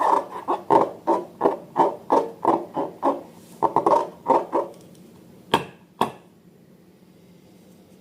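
A rapid run of short squelching strokes, about three a second, as slime is worked by hand or stirred. The strokes stop about halfway through, and two sharp clicks follow.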